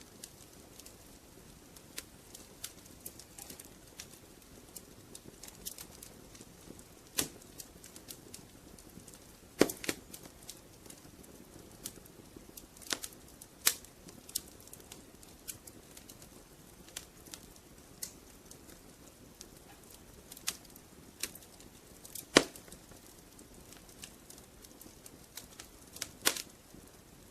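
Wood fire crackling in a fireplace: irregular sharp pops and snaps over a low steady hiss, with a few louder pops scattered through.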